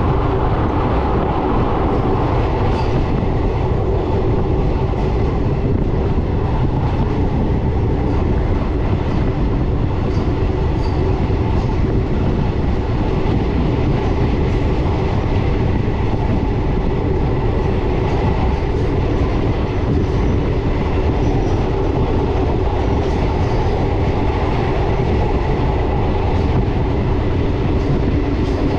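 Passenger train coaches running steadily along the track, heard from on board: a continuous rumble of wheels on rail with a few steady tones and an occasional faint click from the rail joints.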